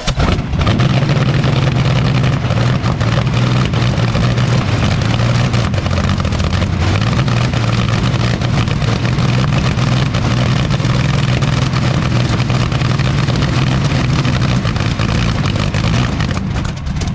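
Rolls-Royce Meteor V12 engine running loud and steady after its first start, its level jumping up just after the start and cutting off abruptly at the end as it stops.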